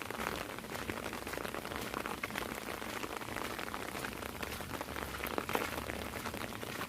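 Heavy rain falling, a steady, dense patter of many small drops.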